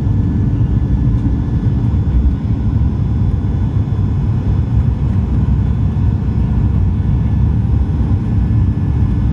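Steady, loud low rumble of a Boeing 737's jet engines and airflow heard from inside the passenger cabin, with a few faint steady whining tones over it.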